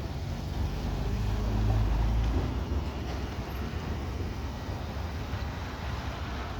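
Heavy rain falling steadily in a thunderstorm. A low roll of thunder swells about two seconds in and dies away.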